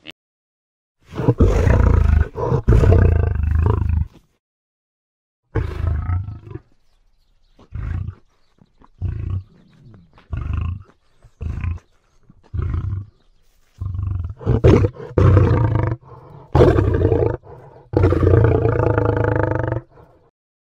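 Male lion roaring: deep roars for a few seconds, then a run of short grunting calls about one a second, then longer, louder roars again near the end.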